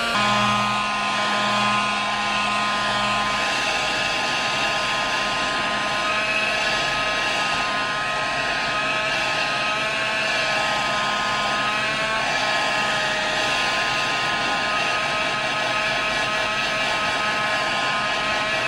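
Electric household appliance motor running steadily: a rushing air noise with a constant whine of several tones. A low hum fades out about three seconds in.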